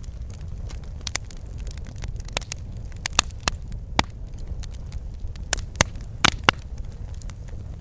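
Wood fire crackling in a fireplace: irregular sharp pops and snaps of burning logs over a steady low rumble, with a burst of louder pops a little after the middle.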